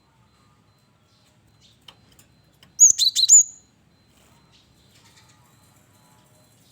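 Cinereous tit (gelatik batu) giving one short burst of about four sharp, high chirps about three seconds in, with a few faint clicks before it.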